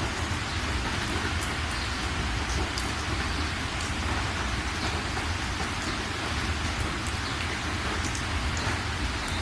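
Steady rain falling: a dense, even hiss with individual drops ticking through it and a steady low rumble underneath.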